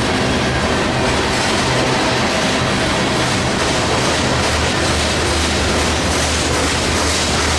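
Freight train rolling past, a loud, steady rumble of wheels on rail with a low hum underneath.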